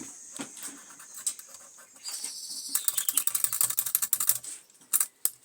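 Small metal parts of a Mamod SW1 toy steam wagon being handled after its steam has been let out: scattered clicks over a faint fading hiss, then about two seconds of rapid metallic clicking and rattling, and a few single clicks near the end.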